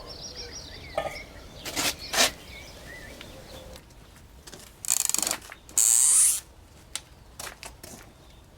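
Scraping and rubbing: two short harsh scrapes about a second apart amid light knocks and clicks, with faint bird chirps.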